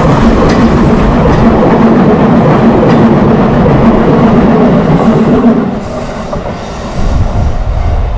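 Train passing close by on the rails: a loud rumble of wheels with a few sharp clacks over the rail joints. It drops away suddenly about six seconds in, and a low rumble rises again near the end.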